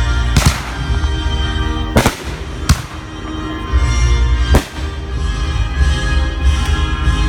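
Backyard consumer fireworks going off in a finale: four sharp bangs in the first five seconds or so, over music playing throughout.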